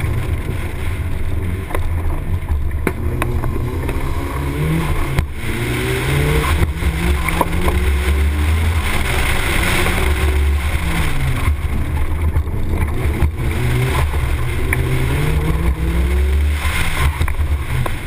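Mitsubishi Colt EVO 9 slalom car's engine revving hard, its pitch climbing and dropping again and again through short bursts of acceleration and gear changes. Heavy wind rumbles on the exterior-mounted microphone underneath.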